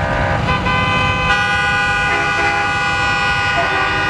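Vehicle horns honking in long held blasts, several pitches overlapping and changing every second or so, over a steady low rumble of engines and traffic.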